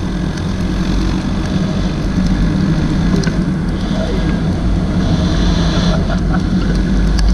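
Motorcycle engine running steadily while riding, mixed with wind and road noise. It grows slightly louder about two seconds in.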